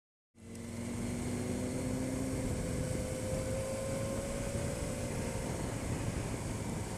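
Motorcycle on the move: engine running under steady wind and road noise, cutting in suddenly just after the start, its engine note slowly rising in pitch.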